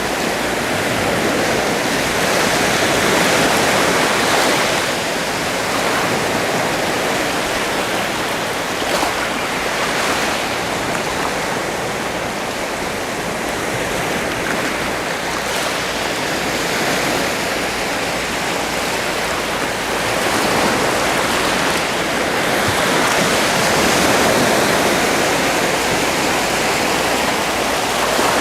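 Sea waves washing on a shore, a continuous rushing wash that swells and eases slowly every several seconds.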